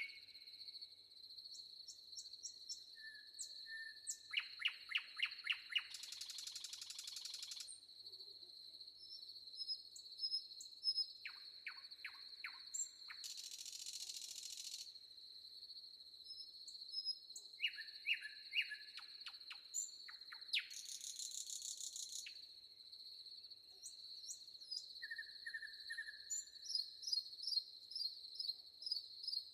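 Several forest birds singing and calling, with quick trilled phrases and a few harsh, noisy calls, over a steady high-pitched insect drone.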